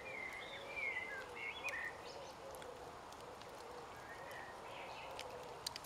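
Wild birds chirping with short whistled notes, busiest in the first couple of seconds, over a faint steady outdoor hush. A couple of sharp clicks come near the end.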